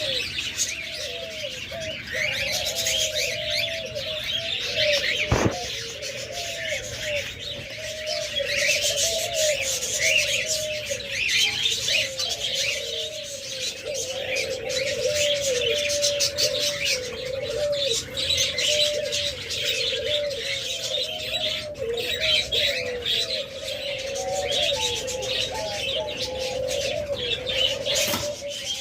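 Doves cooing over and over in short arched calls, with many small cage birds chirping high and fast behind them. A sharp click sounds about five seconds in and again near the end.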